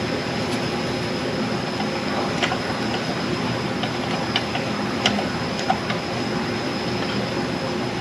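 Steady mechanical whirring hum with a faint high whine, and a few light metallic clicks spaced a second or so apart as bolts are run down with a hand wrench.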